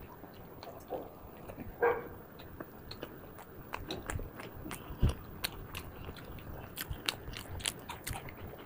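Close-up eating sounds: wet chewing, biting and lip smacking with many small mouth clicks, from people eating rice and chicken curry by hand. A single dull knock about five seconds in is the loudest sound.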